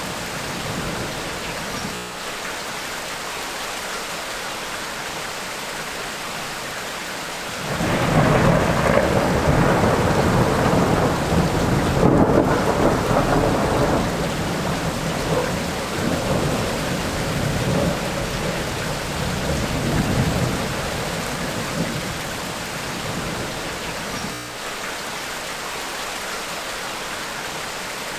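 Tropical rainstorm: steady rain hissing, with thunder breaking in suddenly about a quarter of the way in. The thunder rolls in several swells for about twelve seconds, then fades back into the rain.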